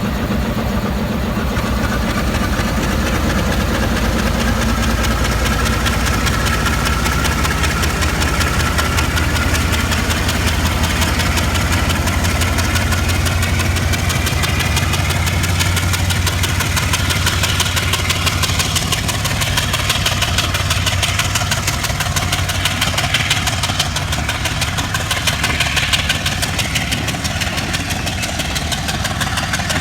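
DLW-built Class M10 diesel-electric locomotive's engine running under power as it pulls away, a deep steady throb with a thin whine that rises over the first several seconds.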